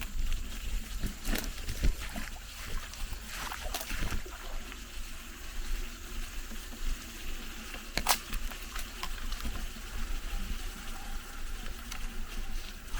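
Mountain bike ridden over a rough, rutted dirt trail: scattered knocks and rattles from the bike over a steady low wind rumble on the microphone, with a sharp knock about eight seconds in.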